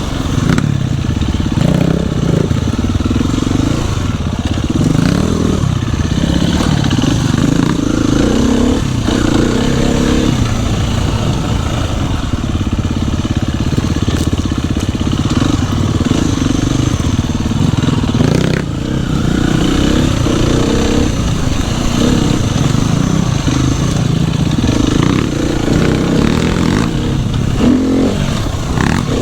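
Dirt bike engine running while riding, its revs rising and falling, with a short drop in the engine note about 18 seconds in.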